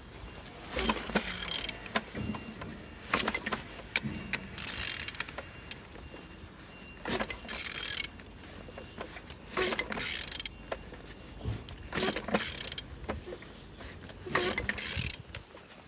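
A ratchet wrench clicking as the crankshaft of a Vauxhall/Opel A20DTH 2.0 diesel engine is turned over by hand, in about seven separate strokes a couple of seconds apart. The engine turns freely, a check that it is not seized.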